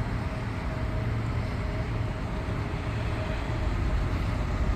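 Steady low rumble of a diesel truck engine idling, the Hino S5's 5.2-litre turbocharged four-cylinder.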